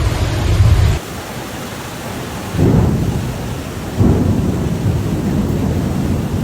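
Steady heavy rain with two rolls of thunder, one about two and a half seconds in and another about a second and a half later, each swelling suddenly and then fading. Before them, a loud low rushing noise cuts off abruptly about a second in.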